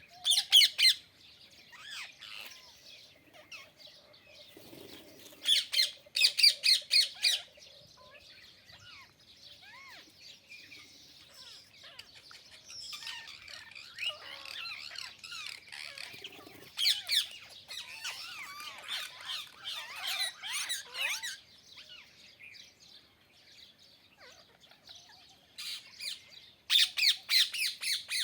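Parrot squawking in several bouts of rapid, harsh repeated calls, with softer chattering calls between the bouts.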